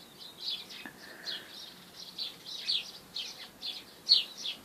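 Bird chirping: a steady run of short, high chirps, about three a second, each sliding down in pitch.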